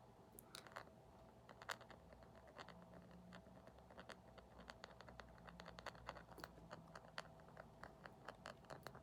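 Quiet, rapid ASMR tapping: many light, quick clicks in an uneven run that grows denser after the first couple of seconds.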